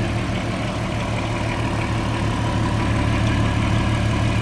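2004 Volkswagen R32's 3.2-litre VR6 engine idling steadily, nice and quiet, with no power steering pump whine.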